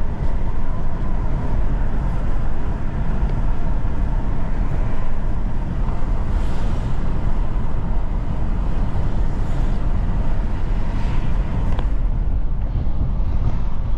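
Steady road and engine noise from inside a moving car, low and even, with a few soft swells of passing traffic and a single click near the end.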